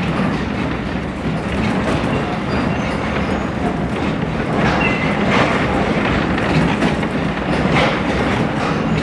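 Railroad passenger coach rolling along the track, heard on board, with a steady rumble and the clickety-clack of wheels over rail joints.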